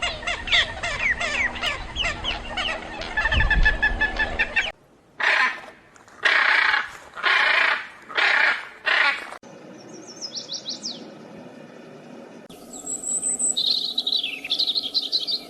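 A run of different bird recordings cut together. First a dense chorus of many birds chirping, then five loud, harsh squawks about a second apart, then fainter falling whistled notes and another bird's busy song.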